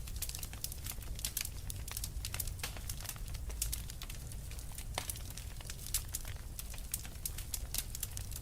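Fireplace fire crackling: many small irregular pops and snaps over a steady low rumble, with a few sharper pops, one about five seconds in.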